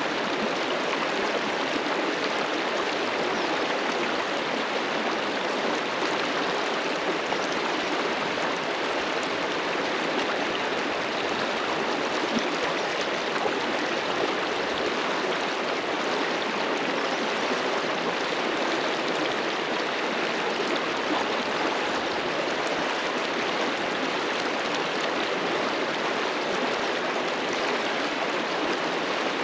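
A fast-flowing river rushing steadily over rocks, a constant even roar of water.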